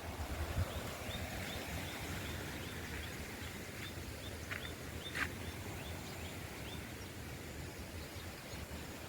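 A bird calling in a steady run of short high chirps, about two or three a second, over steady outdoor background noise. Two sharp clicks come a little past the middle.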